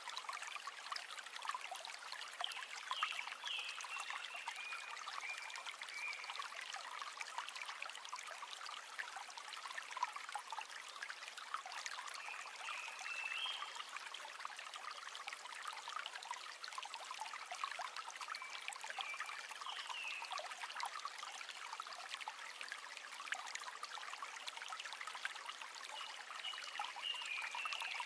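River water running and trickling steadily over stones, with short high chirps recurring every few seconds.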